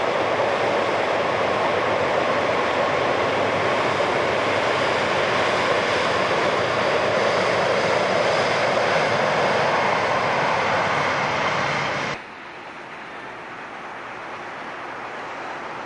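A long train crossing a steel truss railway bridge, a steady loud rumbling rattle of wheels and cars on the bridge. It cuts off suddenly about twelve seconds in, and a much quieter, steady noise takes over and slowly grows louder.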